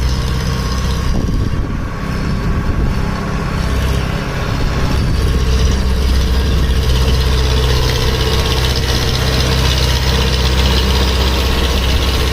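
Powertrac tractor's diesel engine running hard while pulling a fully loaded sugarcane trolley, getting louder and higher about four seconds in and holding there.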